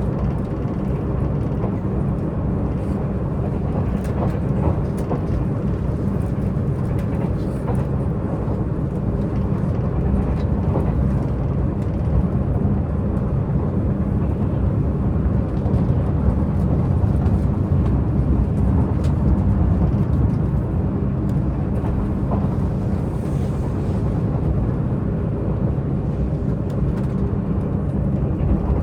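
Diesel multiple-unit Tze-Chiang express train under way, heard from inside the carriage: a steady low rumble of the diesel engines and wheels on the track.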